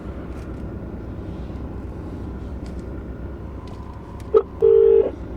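Telephone ringing tone over a steady low rumble: about four seconds in, a short beep, then a longer steady beep, as an outgoing call rings.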